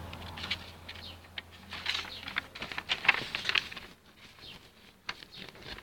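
Small birds chirping in short quick sweeps, with rustling and sharp clicks from a phone being handled against clothing. The chirping thins out after about four seconds.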